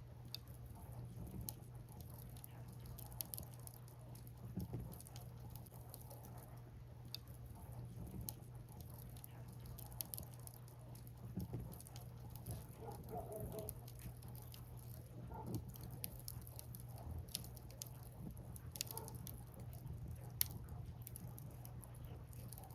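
Firewood burning in a bonfire, crackling with irregular sharp pops and snaps, over a steady low rumble.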